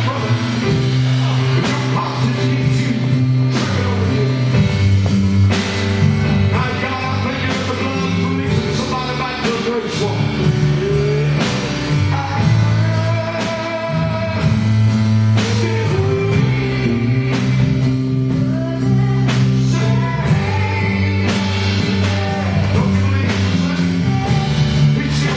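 Live gospel band music: drums, bass guitar and piano with a singing voice, with steady drum hits throughout.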